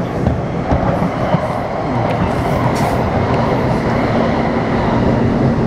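Taipei Metro C301 train, fitted with retrofitted inverter propulsion, running between stations: steady rumble and clatter of wheels on rail. About three and a half seconds in, a steady electric hum from the propulsion equipment joins it.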